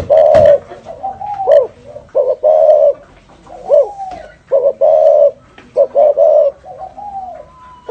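Spotted dove cooing in the 'thổ rền' style: a loud, repeated run of low coos, some notes rising and falling in arcs, phrase after phrase.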